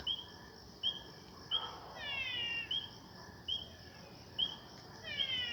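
Marsh frogs calling at night: short high notes repeating about once a second, and twice a longer call that slides down in pitch.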